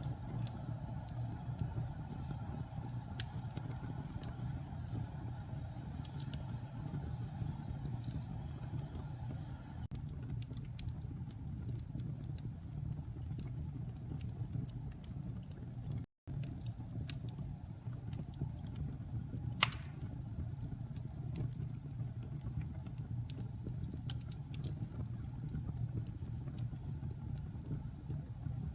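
Wood fire burning in a fireplace: a steady low rumble of the flames with scattered sharp crackles and one louder pop about two-thirds of the way through. The sound cuts out for a split second a little past halfway.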